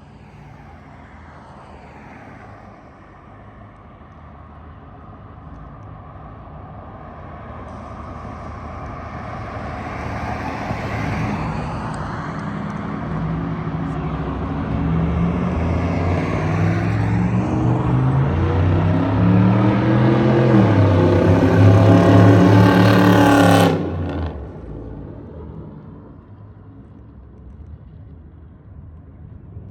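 Straight-piped, cammed LS4 V8 exhaust of a 2008 Impala SS under a long pull, getting steadily louder and higher in pitch with a couple of dips like gear changes. About 24 seconds in the throttle closes and the sound drops suddenly to a low rumble.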